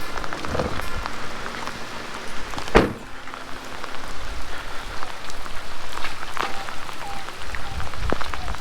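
Steady rain falling, with a few sharp knocks now and then.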